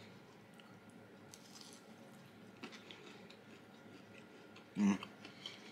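Faint mouth sounds of a man chewing food, with a few soft clicks, then one brief louder sound near the end.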